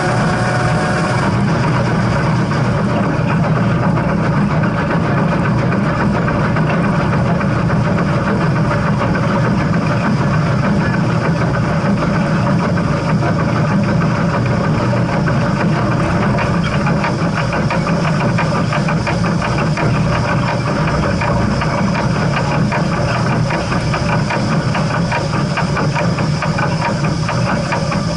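Steam locomotive running with a steady rumble and hiss. A pitched tone stops about a second in.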